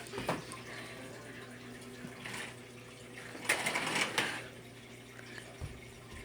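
Packaging rustling and tearing in short bursts as a present is unwrapped. The loudest bursts come about three and a half to four seconds in.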